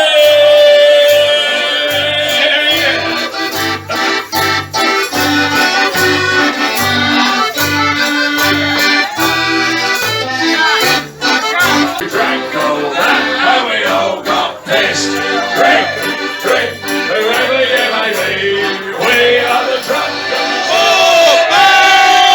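Live folk band playing an instrumental passage led by an accordion, with a steady bass beat about twice a second.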